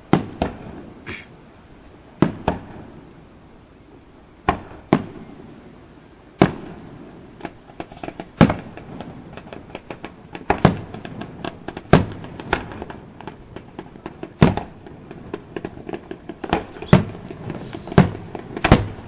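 Aerial fireworks shells bursting overhead: sharp bangs every second or two, each trailing off in an echo, coming faster in a quick run of reports near the end.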